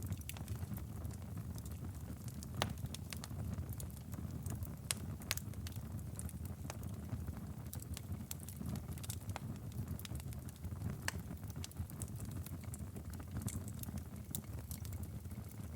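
Wood fire burning in a fireplace: a steady low rumble of flames under irregular sharp crackles and pops from the burning logs.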